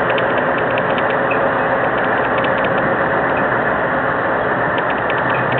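Heavy truck diesel engine running steadily under load while towing, with a fast, irregular clicking rattle over it.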